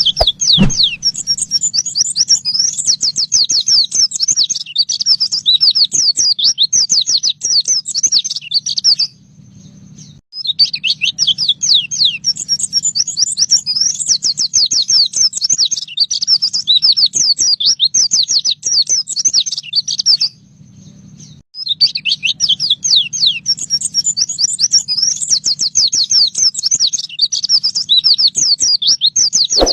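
White-eye (pleci) singing its fast 'nembak' song: rapid strings of high, sweeping chirps in three long bouts of about nine seconds each, with brief pauses between. A faint low hum runs underneath.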